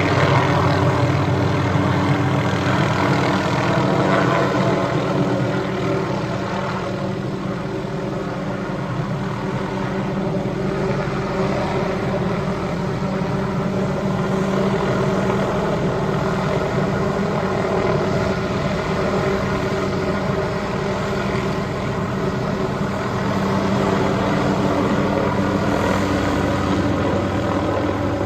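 Hughes 369D helicopter's turbine engine and rotor running steadily, with a slight dip in loudness part way through.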